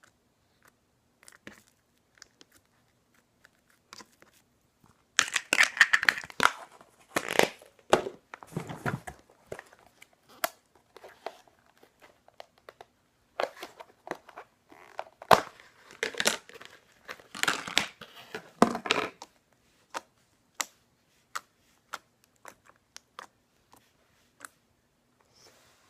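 Hands handling slime and its plastic container: crinkling, tearing and squishing noises in two spells of a few seconds each, with scattered small clicks and taps between.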